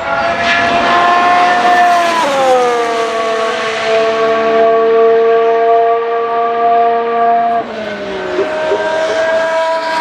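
Formula 1 car's 1.6-litre turbo-hybrid V6 running at high revs and passing by. The engine note drops sharply in pitch about two seconds in, then holds steady as the car pulls away, with another shift in the note near the end.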